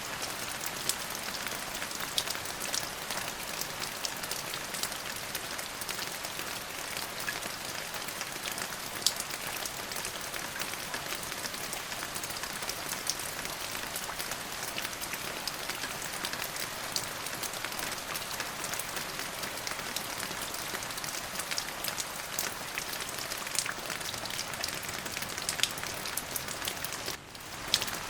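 Steady rain falling on a hard surface, with individual drops ticking sharply through the patter. The sound briefly dips and comes back about a second before the end.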